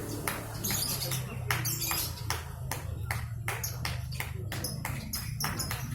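Many caged songbirds singing at once, with rapid sharp chirps and calls overlapping several times a second over a steady low murmur.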